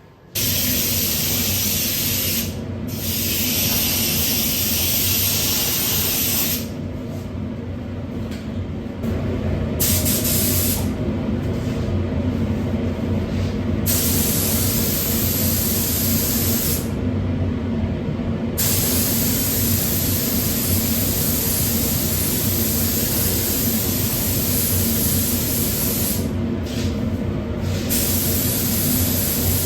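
Paint spray gun spraying 2K acrylic paint: the hiss of atomising air, switched on and off in long bursts as the trigger is pulled and released, over a steady low hum.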